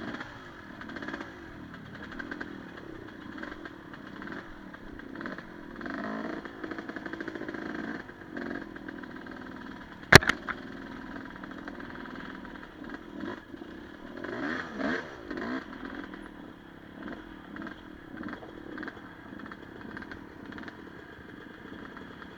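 Enduro motorcycle engine revving up and down as it is ridden, with one sharp knock about ten seconds in.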